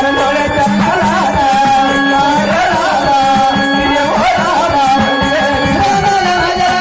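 Marathi folk devotional song (jagran gondhal): a wavering sung melody over steady held drone notes and fast, dense hand-drum beats.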